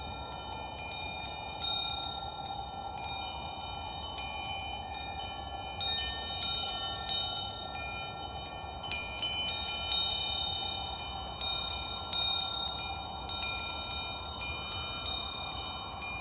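Wind chimes ringing: irregular high struck tones that ring on and overlap, the loudest strike about nine seconds in, over a steady hiss.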